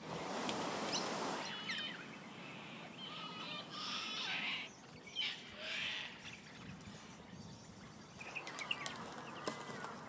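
Birds chirping and calling among outdoor ambient noise, with short gliding calls and chirps. A brief rush of noise opens the stretch.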